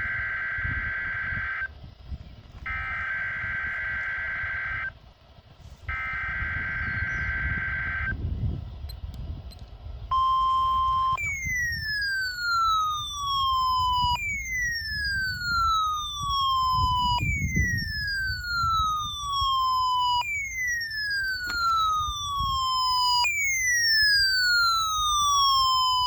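Weather radio sounding an Emergency Alert System tornado warning test. First come three bursts of data-header tones, each about two seconds long. A brief steady alert tone follows about ten seconds in, and then an electronic siren-like alarm sweeps downward in pitch, repeating about every three seconds.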